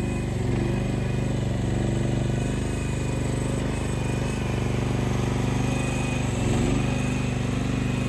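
Mini excavator engine running steadily, with a fast even firing beat and small shifts in pitch as it works.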